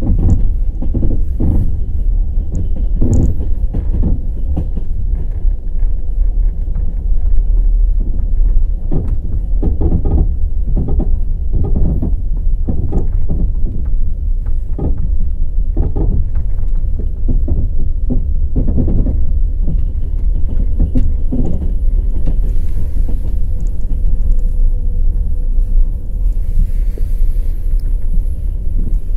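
Passenger train wheels running on the rails at speed: a steady low rumble with repeated knocks of the wheels clattering over the rail joints.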